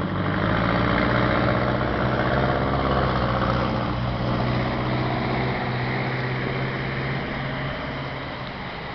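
A motor vehicle engine running close by with a steady hum. It is loudest in the first few seconds and then gradually eases off.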